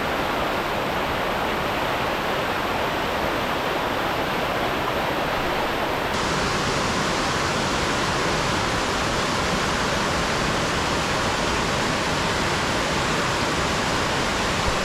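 Steady, loud rush of water from Crystal Creek's waterfall and cascades, running high after heavy overnight rain. The tone shifts slightly about six seconds in.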